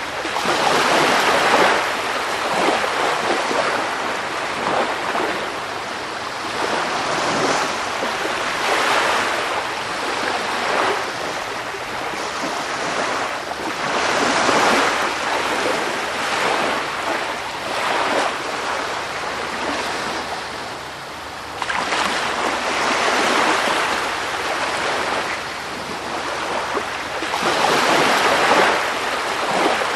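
Sea surf: waves breaking and washing in a continuous hiss that swells and eases every few seconds, with a brief lull about three quarters of the way through.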